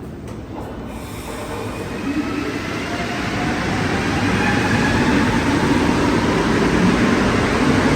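Rubber-tyred Montreal Metro train running through the station, growing steadily louder from about a second in, with faint tones shifting in pitch over the rumble.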